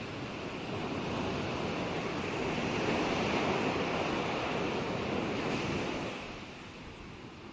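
Ocean waves washing onto a shore: one wave swells and rushes in, then ebbs away near the end.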